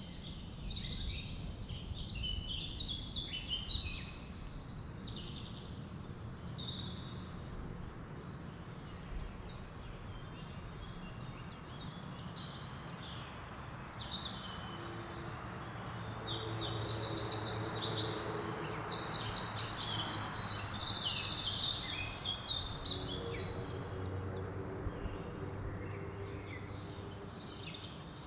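Several songbirds singing in forest, a steady mix of short phrases. In the middle one bird sings loudest, a fast run of repeated high notes. A steady low rumble runs underneath, and a faint low hum joins about halfway.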